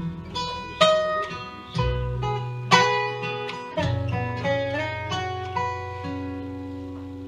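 Acoustic guitar picking the instrumental close of a folk song over low bass notes, ending on a final chord struck about five and a half seconds in and left to ring and fade.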